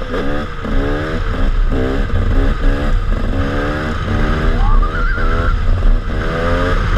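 KTM 300 two-stroke dirt bike engine revving hard under load, its note climbing again and again about twice a second as the throttle is worked.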